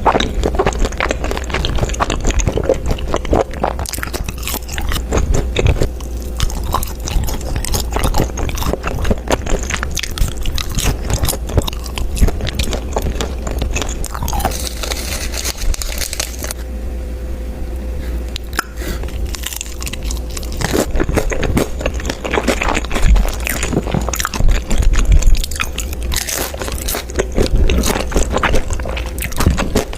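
Close-miked eating: crunchy food being bitten and chewed, a dense run of sharp crunches and mouth sounds, over a steady low hum.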